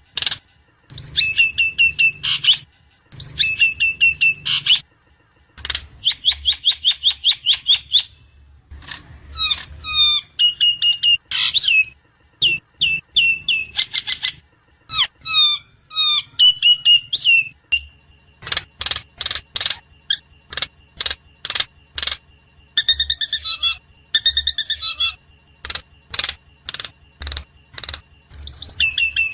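Recorded Javan myna (jalak kebo) song played back as a training track. It is a busy run of sharp repeated clicks, fast chattering trills and short whistled phrases, each repeated several times. A thin steady high tone sits underneath in the second half.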